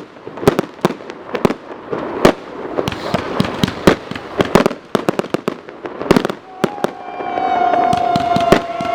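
Fireworks going off in a rapid, irregular series of sharp bangs and crackles. A whistling firework joins about two-thirds of the way in with a steady, slightly falling whistle.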